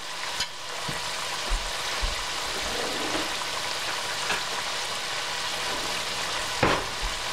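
Sweet potato wedges sizzling steadily as they shallow-fry in hot oil in a stainless steel pan. There are a few faint clicks and a short, louder knock near the end.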